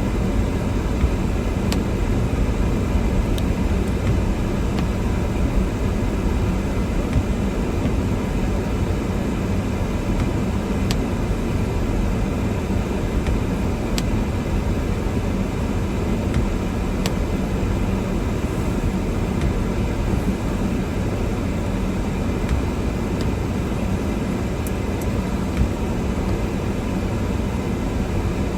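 Car driving through a snowstorm: a steady low rumble of engine, tyres and wind, with a few faint ticks scattered through it.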